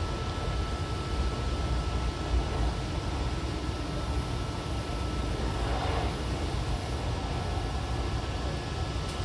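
Running noise of an Odakyu 70000 series GSE limited express train, which has a full-SiC VVVF inverter: a steady low rumble of wheels on rail. A faint steady high tone fades out about halfway through.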